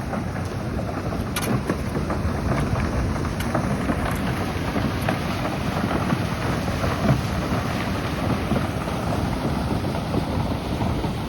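Flash-flood runoff rushing steadily down a driveway in heavy rain, with wind buffeting the microphone.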